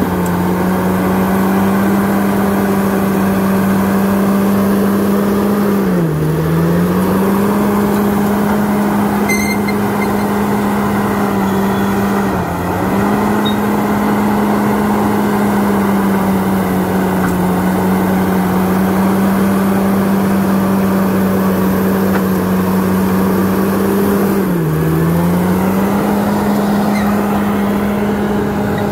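Bulldozer's diesel engine running hard at a steady pitch, which sags briefly and recovers three times.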